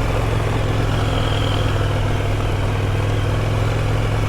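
Motorcycle engine running at steady, low revs while riding, with a constant hum and no change in pitch.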